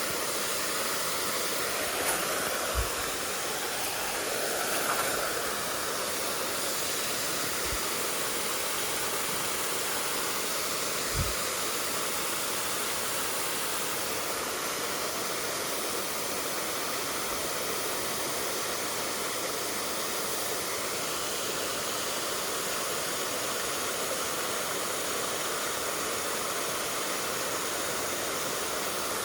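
Valley stream water rushing steadily over rocks, a dense unbroken hiss of flowing water. A few soft, brief low thumps come through it.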